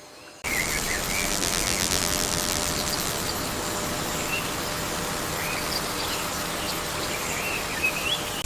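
Rainforest ambience: a dense, steady insect drone with short bird chirps over it, cutting in abruptly about half a second in.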